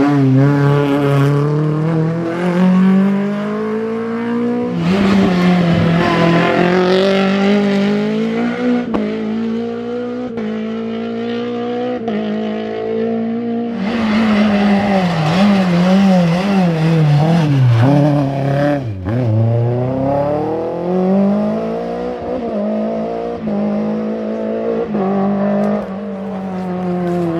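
Renault Clio Williams rally car's 2.0-litre four-cylinder engine at hard revs, its note rising and falling repeatedly with gear changes and lifts. The sound jumps abruptly about 5, 14 and 19 seconds in as one pass gives way to the next.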